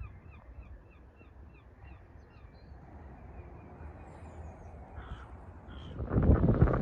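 A bird giving a rapid run of short, repeated calls, about four a second, that fade out after a couple of seconds, with two more calls later. Near the end, wind buffets the microphone loudly.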